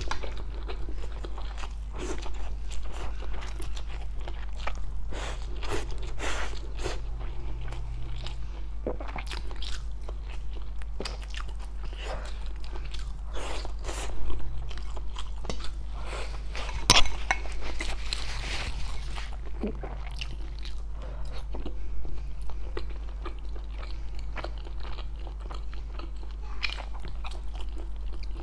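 Close-miked chewing and crunching while eating homemade mala xiang guo, a spicy stir-fried dry pot: a steady run of crisp bites and wet chews, with two louder crunches about halfway through. A low steady hum sits underneath.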